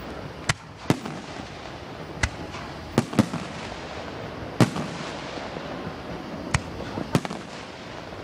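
Aerial firework shells bursting in an irregular string of sharp bangs, about nine in eight seconds, the loudest a little past halfway, over a steady background noise.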